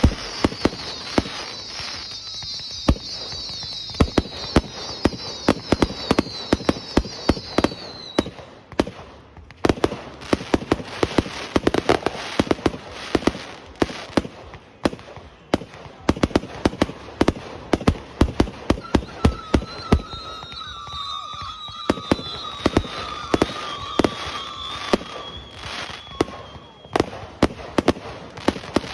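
Fireworks display: a rapid, dense barrage of sharp bangs and pops. High, slightly falling whistles run over the first third and come back about two-thirds of the way through.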